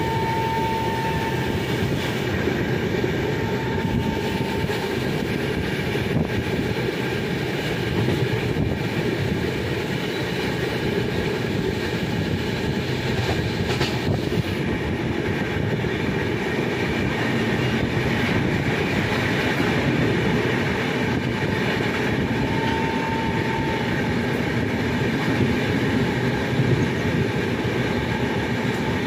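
Passenger train running at speed, heard through an open carriage window: a steady rumble and rattle of wheels on the rails mixed with rushing air. A brief thin squeal comes and goes a few times.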